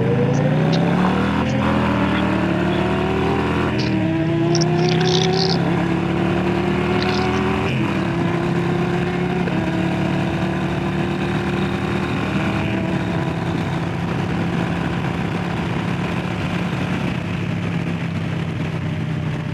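Harley-Davidson Low Rider S's Milwaukee-Eight 117 V-twin accelerating through the gears. The pitch climbs, drops at upshifts about 4 and 8 seconds in, then holds steady at cruising speed.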